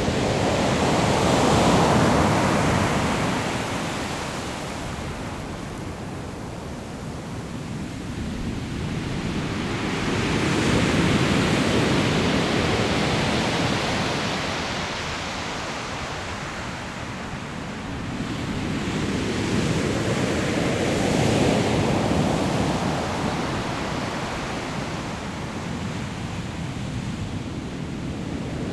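Sea waves breaking on a pebble shore: three big waves about ten seconds apart, each rising to a rush of surf and then fading back.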